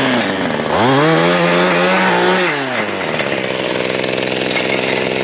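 Mantis tiller's small engine running on a new carburetor: it drops off a rev at the start, revs up again about a second in, holds briefly, then falls back to a steady idle near three seconds in. It runs smoothly, showing the replacement carburetor has fixed the no-run problem.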